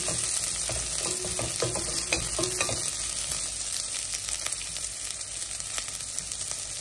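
Onions frying in hot oil in a pan: a steady sizzle, with the stirring utensil clicking against the pan, most often in the first few seconds.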